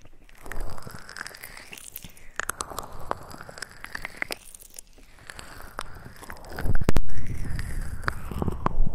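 Close-miked ASMR trigger sounds: scratching, rubbing and crackling right on the microphone in slow sweeps, with many small clicks and heavier handling thumps about seven seconds in and again near the end.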